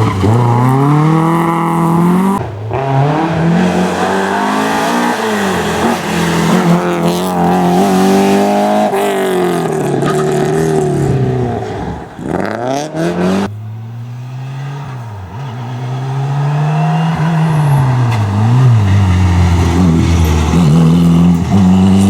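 Rally car engines under hard acceleration, the revs climbing and dropping again and again through gear changes. About two thirds of the way through the sound changes suddenly and another run starts, the revs rising through the gears once more.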